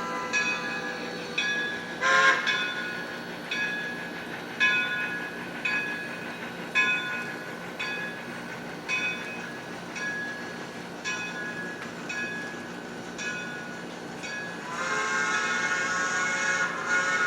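Sound-equipped HO-scale model steam locomotive: its bell rings about once a second, and near the end the steam whistle sounds one long chime blast.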